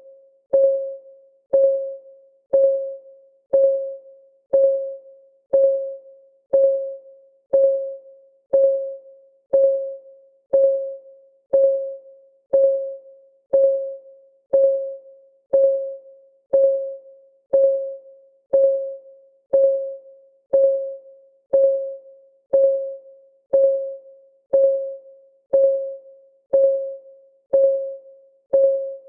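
Countdown timer's clock-ticking sound: a short, pitched tick once every second, each fading away quickly.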